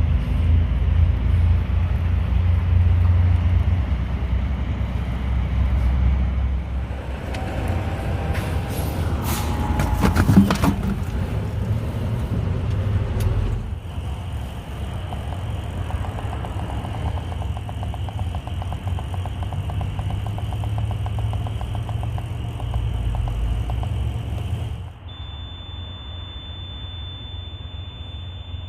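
Kenworth W900 semi truck driving, heard from inside the cab: a steady low engine and road rumble. About ten seconds in there is a short spell of rattling and clicks. Near the end the rumble drops quieter and a faint steady high tone comes in.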